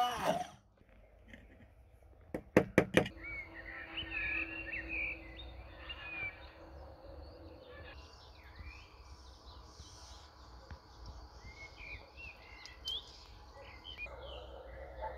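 Small birds chirping and singing, many short rising and falling calls over a low background hum. A motor cuts off at the very start, and about two and a half seconds in comes a quick run of sharp clicks, the loudest sound here.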